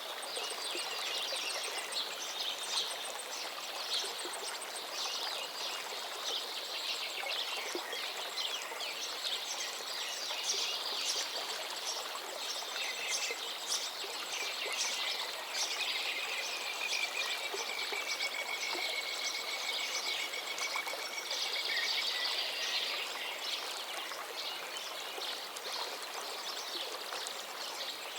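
Several songbirds singing over the steady rush of a forest river. Between about sixteen and twenty-two seconds one bird holds a long, even trill.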